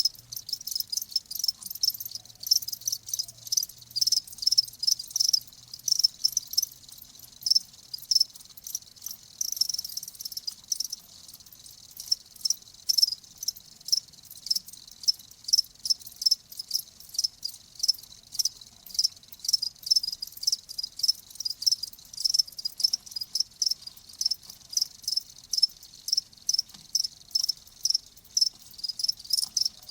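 Crickets chirping: short, high-pitched chirps repeated a few times a second without a break.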